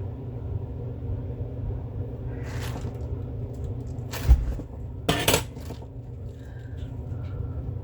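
Three knocks and clatters of hard objects being handled and set down, the loudest a heavy thump about four seconds in, over a steady low rumble.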